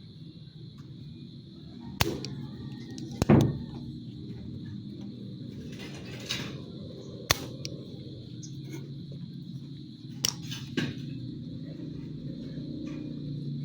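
Hand work on computer parts: a few sharp clicks and knocks of tools and components being handled, the loudest about three seconds in and two more close together near the end, over a steady low hum and a faint high whine.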